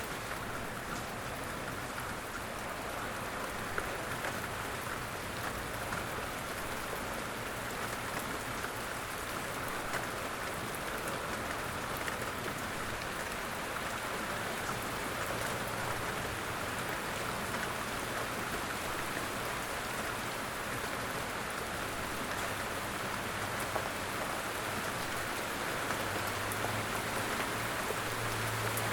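Steady light rain: an even hiss of falling drops, with scattered single drops ticking through it. A low rumble comes up near the end.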